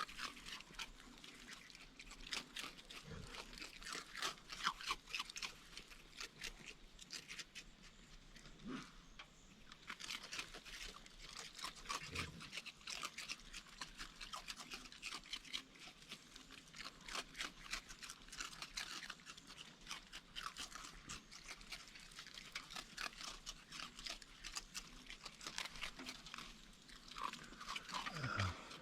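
Raccoons chewing and crunching food at a feeder: a continuous run of small, irregular crunches and bites.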